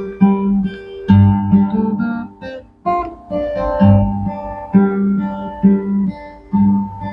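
Solo fingerstyle guitar playing a slow, calm piece, with plucked bass notes and chords ringing out about twice a second.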